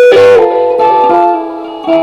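Electric guitar playing sustained, ringing notes and chords. A chord is struck as it begins and another near the end, with the held notes moving in pitch between them.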